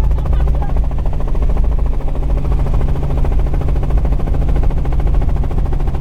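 Helicopter in flight: loud, constant rotor chop over a steady engine drone.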